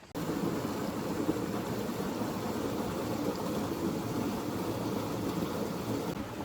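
Steady rush of flowing water from a valley stream, cutting in suddenly just after the start and holding evenly throughout.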